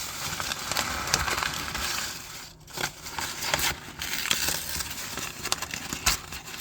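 A stack of paper being crushed and crumpled in the hands: a dense crackling rustle with many sharp crinkles and a brief pause about two and a half seconds in.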